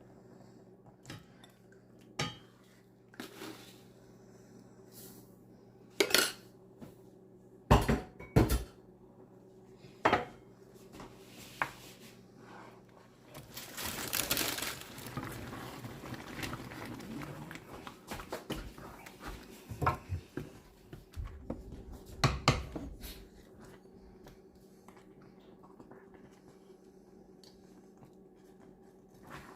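Cooking clatter: pots, pans and utensils knocking and clinking in scattered strikes, with a few seconds of hissing noise about halfway through, over a faint steady hum.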